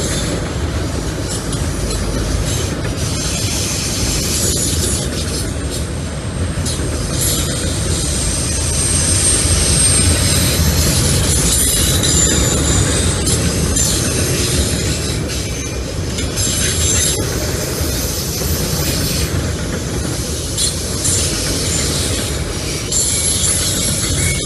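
Freight train of enclosed autorack cars rolling past: a steady rumble of steel wheels on rail, with high-pitched wheel squeal that comes and goes.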